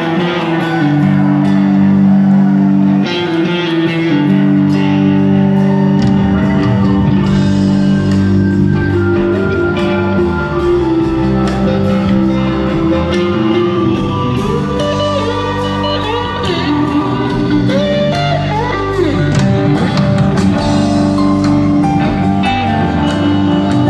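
Live Southern rock band with electric guitars, playing loud sustained chords; a low bass part comes in about six seconds in, and bending lead-guitar lines run through the middle.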